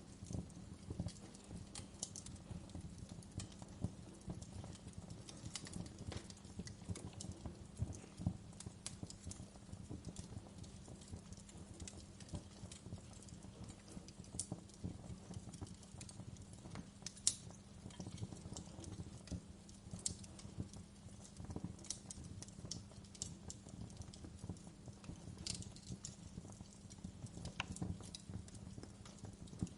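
Wood fire crackling, with a steady stream of small irregular pops and snaps; one sharper pop comes about seventeen seconds in.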